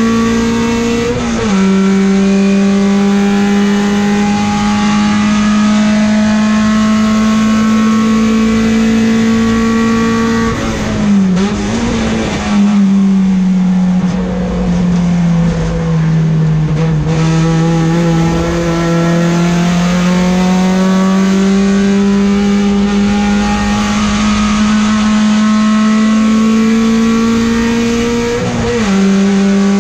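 Peugeot 405 STi race car's engine, heard from inside the cabin, running hard at high revs. Its pitch drops sharply about a second in. Around the middle it dips, drops and sags lower for a few seconds, then climbs gradually back up before another sharp dip near the end.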